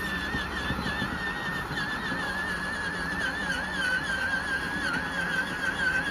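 Electric motor of a child's ride-on toy Jeep whining steadily as it drives, its pitch wavering slightly up and down, over a low rumble.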